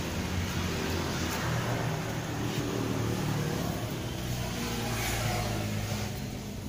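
Toyota Calya's 1.2-litre four-cylinder engine idling with a steady low hum.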